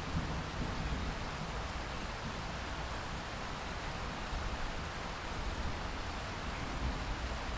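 Steady heavy rain, an even hiss with a low rumble underneath that swells slightly near the start and again near the end.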